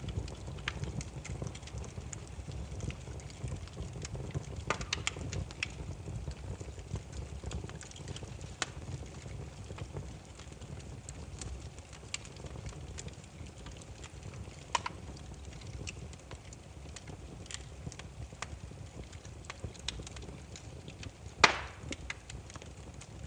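Burning firewood crackling: irregular sharp pops and snaps over a low steady rumble, with one loud pop near the end.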